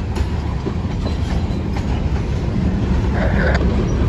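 Freight train passing, its wheels clattering over the rail joints over a steady low rumble as the last cars go by.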